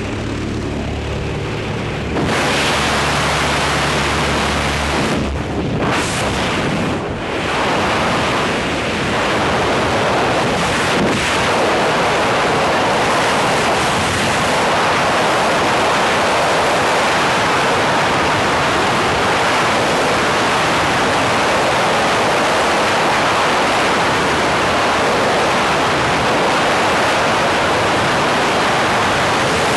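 Propeller-driven jump plane's engine droning. About two seconds in, a loud, steady rush of wind over the microphone takes over as the engine hum fades away: the sound of a tandem skydive's exit and freefall.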